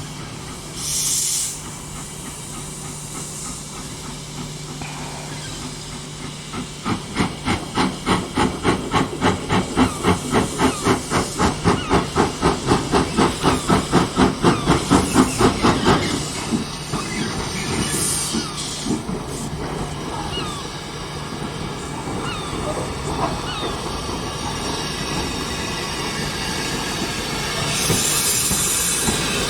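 Steam locomotive working: a short hiss of steam, then about ten seconds of exhaust chuffs at about three a second as it pulls, easing off into a steady running rumble with light clicking, and another hiss of steam near the end.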